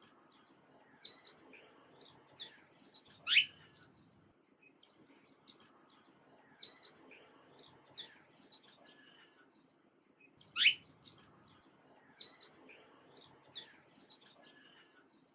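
Several small songbirds chirping and calling in short, high notes, with a louder sweeping call twice, about three seconds in and again about ten and a half seconds in.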